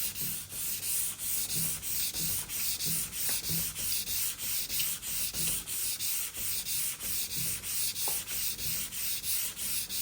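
Fine sandpaper rubbed by hand over a timber cabinet top in quick, even back-and-forth strokes, about two to three a second: light finishing sanding with 320-grit paper.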